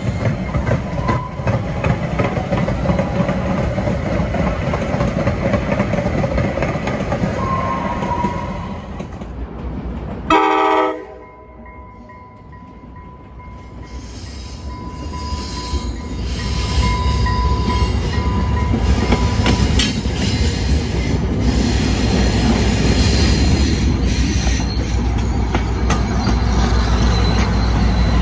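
A DART light-rail car rolls past with steady wheel-on-rail noise. About ten seconds in there is a short, loud tone, then a quieter stretch with a thin steady whine as a TRE diesel commuter train approaches; its locomotive's low engine rumble and rolling noise build and stay loud as it passes close by.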